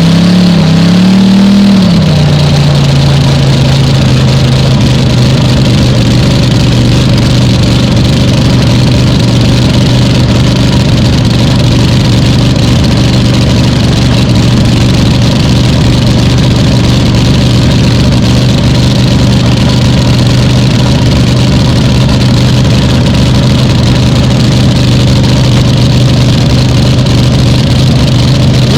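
Supercharged, alcohol-fuelled engine of a Top Alcohol Hydroplane drag boat, just fired. It rises and wavers for the first couple of seconds, then settles into a loud, steady idle.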